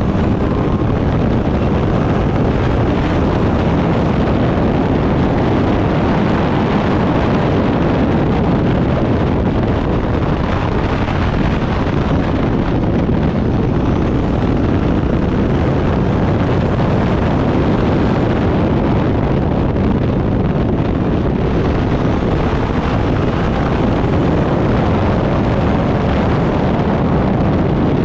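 Turbocharged Backdraft Cobra race car's engine running hard at speed, buried in heavy wind noise on the microphone, loud and steady throughout.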